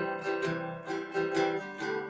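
Background music: plucked acoustic guitar or ukulele notes picked in a steady rhythm, several a second.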